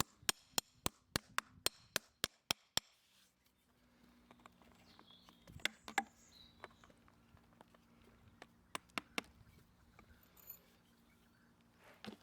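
Sharp, evenly spaced taps, about three or four a second, stopping about three seconds in, followed by a few scattered clicks and knocks over a faint steady hum.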